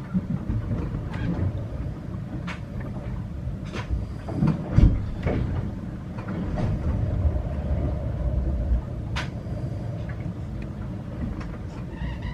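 Sailboat underway: a steady low rumble with scattered sharp clicks and knocks, and a louder run of knocks about four to five seconds in.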